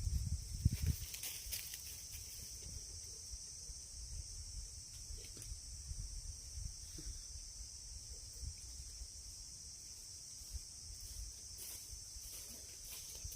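Insects shrilling in a steady high drone, with a low fluttering rumble on the microphone and a few light clicks near the start and near the end.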